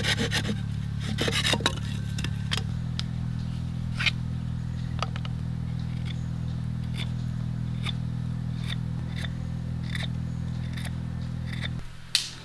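A saw cutting wood: its last few strokes die out in the first second or two. Then light scattered clicks and taps over a low steady hum, and a sharp knock near the end.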